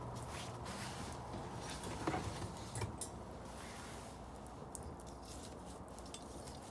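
Bonfire burning: a steady low rush of flame with scattered crackles and pops, the loudest pair about two and three seconds in.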